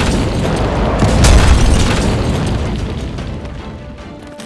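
Explosion sound effects: a deep boom about a second in, following one just before, then a low rumble that fades away over the next few seconds.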